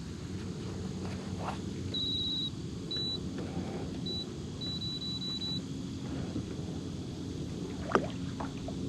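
Electric trolling motor on a fishing kayak running with a steady low hum. A few short high electronic beeps come between about the second and sixth second, and a sharp click sounds near the end.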